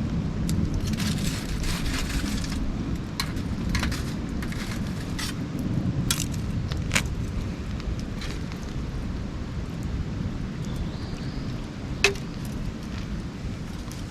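Wood campfire crackling: scattered sharp pops and snaps over a steady low rumble, with one louder pop about twelve seconds in.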